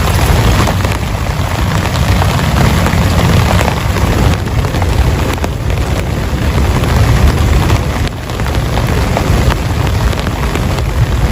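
Heavy rain pattering densely on a tent, many small drop ticks over a strong, steady low rumble.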